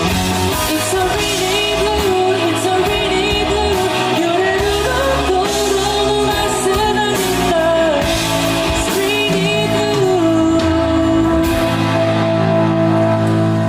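Band playing a pop-rock ballad with singing over drums and cymbals. The melody settles on a long held note about ten seconds in.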